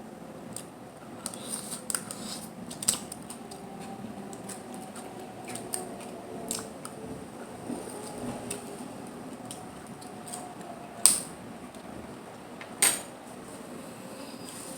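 Close-miked eating of mussels and clams: scattered small hard clicks and taps as the shellfish are handled, with two sharper, louder clicks near the end.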